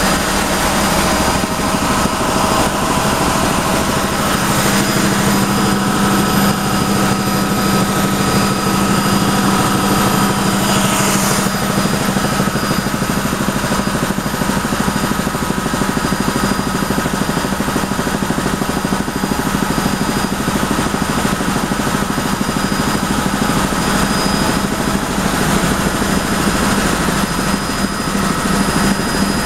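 Helicopter in flight, heard from inside the cabin: steady engine and rotor noise with a constant high whine over it.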